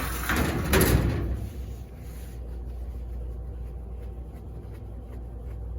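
Scraping and rustling of a laundromat dryer's parts being handled during a belt repair, lasting about a second and a half, then a steady low hum.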